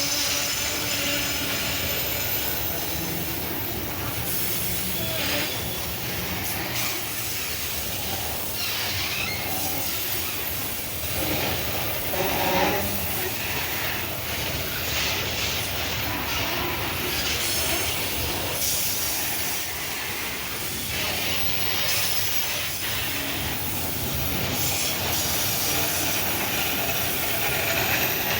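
Loaded grain freight wagons rolling past on a downhill mountain grade, their steel wheels squealing and rumbling on the rails at a steady level.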